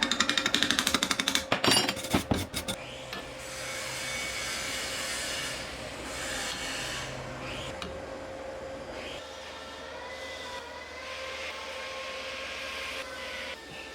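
Workshop tool working on material: a rapid, loud rasping for the first two and a half seconds, then a steadier, quieter scraping with a faint steady hum beneath.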